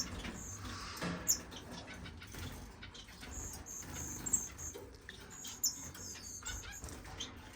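Small cage finches chirping: short high chirps and a few brief held notes, scattered through the quiet, with some soft clicks from the cages.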